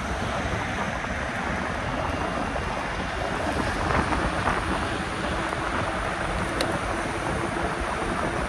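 Steady rush of wind buffeting the microphone, over the road noise of a moving e-bike.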